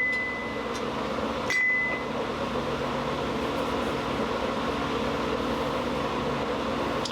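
One hammer blow on steel at the anvil about a second and a half in, with a short high ring, over the steady rushing hum of the forge running.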